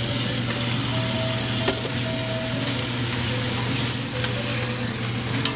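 Chicken pieces sizzling as they cook in a pot, over a steady low hum, with a few light clicks.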